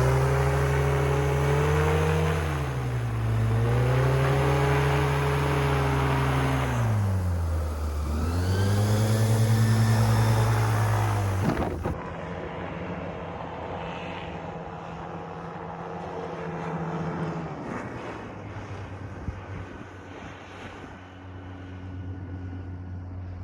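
Vyuga airboat's engine and propeller running, the pitch rising and falling as the throttle is opened and eased, with a deep dip about eight seconds in. About twelve seconds in it drops suddenly to a quieter, steadier drone that fades further near the end.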